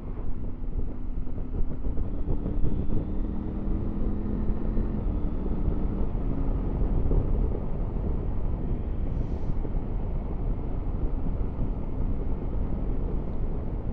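Triumph Tiger 900 GT Pro's three-cylinder engine running at road speed under a steady rumble of wind and road noise. A faint engine tone rises slightly over the first few seconds, then merges into the rumble.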